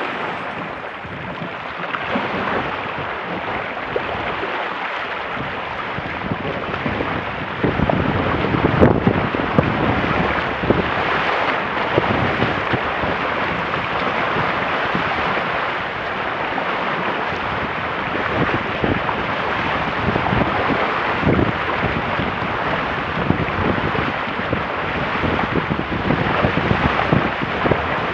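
Wind buffeting the microphone in irregular gusts over a steady rush of water along the hulls of a Weta trimaran under sail.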